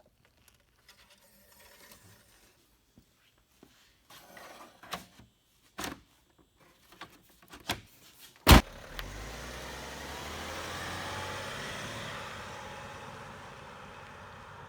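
Light clicks and knocks of handling on the car, then a single loud slam about 8.5 seconds in, a car's hood or door being shut. A steady low running noise follows, swelling slightly and then easing off.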